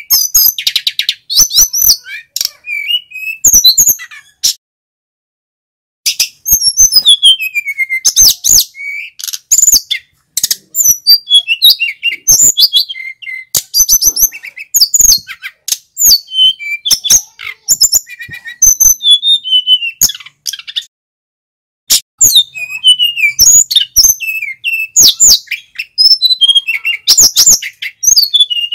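Male sikatan gunung (mountain flycatcher) singing loud, rapid, high-pitched phrases of sharp whistled and chirping notes, falling silent briefly about five seconds in and again about twenty-one seconds in.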